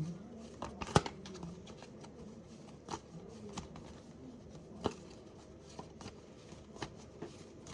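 Tarot cards being handled: a scattering of light clicks and taps, the sharpest about a second in, with a few more spread out after.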